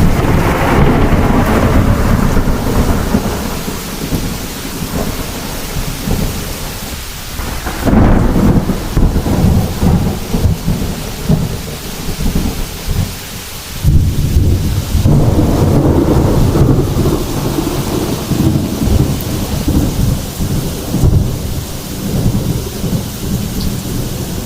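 Heavy thunderstorm: long rolls of thunder over steady rain. A fresh peal of thunder comes about eight seconds in and another about fourteen seconds in, after a short lull.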